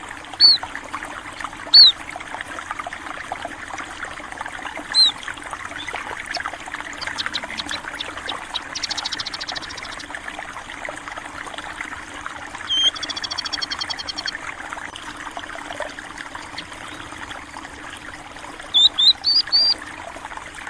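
Water trickling and flowing steadily, with small birds calling over it: single short, sharp chirps a few seconds apart, a quick run of four near the end, and two fast trills in the middle.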